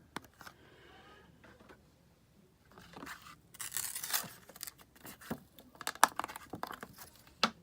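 Plastic blister packaging being handled, with a short tearing rustle about halfway through, then scattered sharp clicks and taps.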